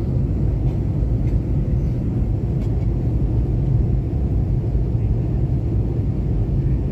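Steady low rumble of a passenger airliner heard from inside the cabin: engine and airflow noise.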